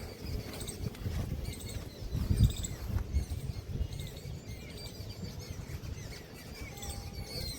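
Small birds chirping over and over in short, quick calls, with an uneven low rumble underneath that swells briefly about two and a half seconds in.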